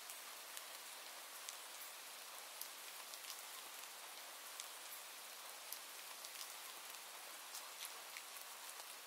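Faint, soft, steady rain: an even hiss with scattered drops ticking through it.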